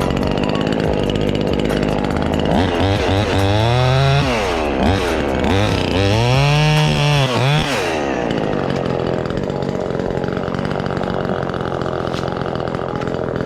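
Small chainsaw with a 12-inch bar running. Its pitch rises and falls several times in the middle as it is revved through cuts on limbs, then it runs steadily and stops suddenly at the end.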